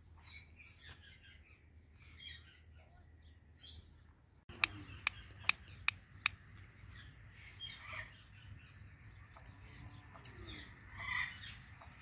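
Bird chirps: faint scattered twittering, then a run of five short, sharp chirps about half a second apart, followed by softer scattered chirps.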